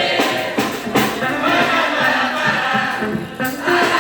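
Live gospel band music with drums and keyboard, and some singing from the congregation.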